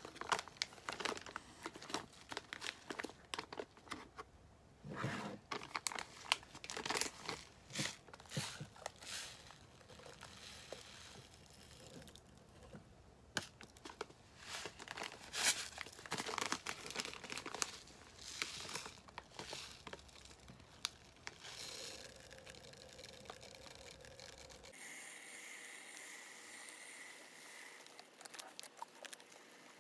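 Packaging being handled during an unboxing: irregular crinkling, rustling and tearing, thinning out and going quiet for the last several seconds.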